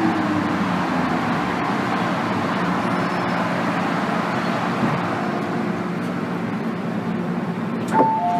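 Steady rumble and hiss inside an MTR M-Train carriage. About eight seconds in, after a click, a two-tone electronic chime starts.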